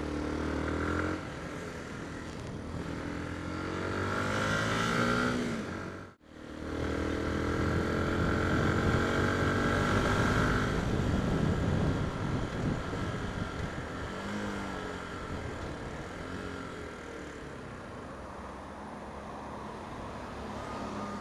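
Yamaha WR125X's 125 cc single-cylinder four-stroke engine heard from the rider's helmet camera, revving up with rising pitch over road and wind noise. A brief break to near silence about six seconds in, then the engine runs hard again and eases off, getting quieter in the later part.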